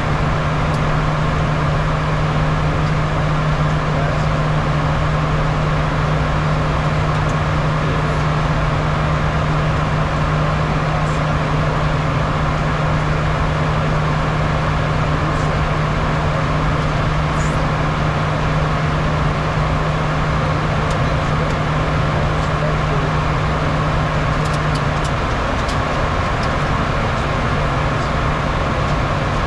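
Steady noise inside a Bombardier Challenger 350 business jet in flight: a continuous rush of air over the airframe with the drone of its Honeywell HTF7350 turbofans. A strong low hum holds steady throughout, then thins and shifts slightly about 25 seconds in.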